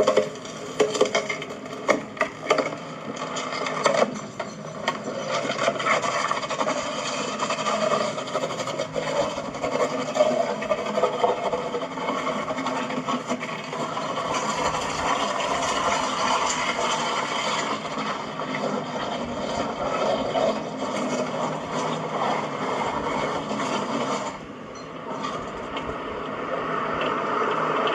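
Chain being dragged through a culvert, a continuous scraping rattle with a few sharper clanks in the first few seconds.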